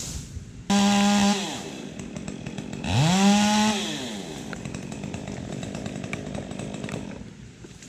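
Two-stroke chainsaw revved to full throttle twice, each time for about a second. The first burst starts suddenly and the second climbs up from low, and each winds down before the saw drops back to a low idle.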